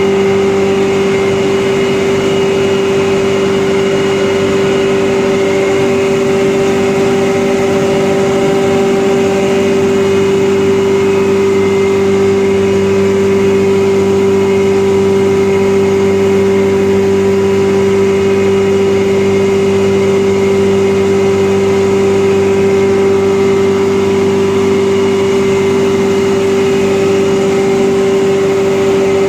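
Rice husk grinding machine running steadily, a constant machine hum with a steady whine over it.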